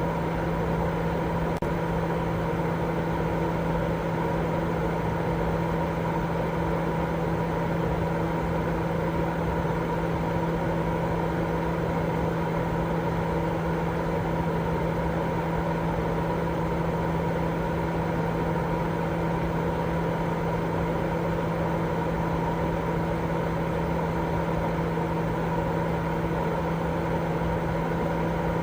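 Continuous white noise played as a baby sleep aid: an even, unchanging rush, fuller in the low end than the top, with a steady low hum running through it.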